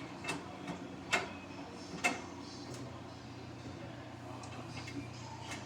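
Samsung washing machine turning its drum with a jacket inside: a few sharp clicks and knocks about a second apart in the first half, then a steady low motor hum from about halfway.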